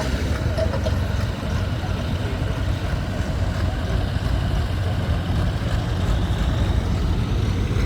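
Tractor engine running steadily under a low rumble, with no clear revving up or down.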